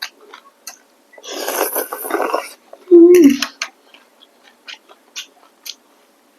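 Close-miked eating sounds: wet mouth clicks and smacks throughout, with a noisy slurp or chew of rice noodles lasting over a second. About three seconds in there is a short 'mm' that falls in pitch.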